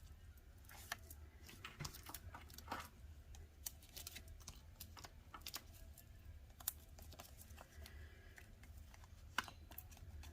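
Faint, irregular small clicks and taps of cardstock and small crafting tools being handled on a work surface, over a low steady hum.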